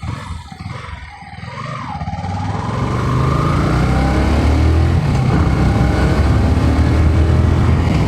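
Bajaj Pulsar NS 160's twin-spark single-cylinder engine accelerating under a rider, its pitch climbing as it revs, with a drop in pitch about five seconds in like an upshift, then climbing again.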